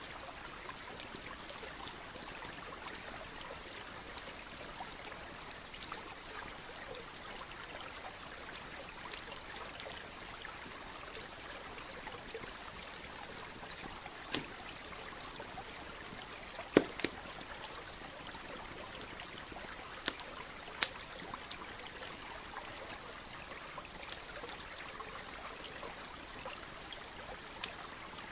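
A stream trickling steadily, with a campfire crackling over it in scattered sharp pops. The loudest pops come a little past the halfway point.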